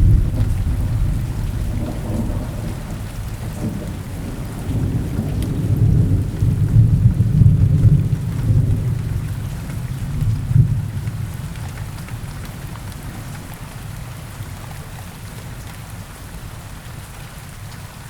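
Steady rain with low rolling thunder rumbling underneath; the rumble swells through the middle, then fades away, leaving quieter rain near the end.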